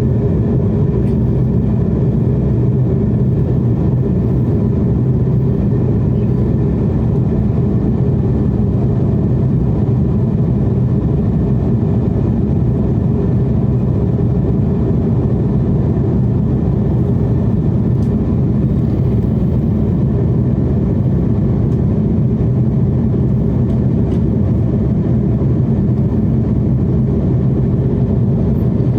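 Airliner passenger-cabin noise in flight: a steady, loud low rush of jet engines and airflow that does not change.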